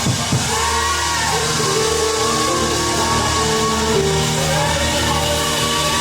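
Live worship music: long sustained chords over a steady bass line.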